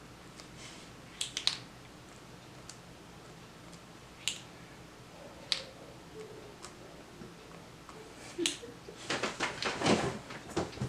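Colored pencil working on paper: a few isolated sharp taps and clicks, then a quick run of scratchy strokes near the end.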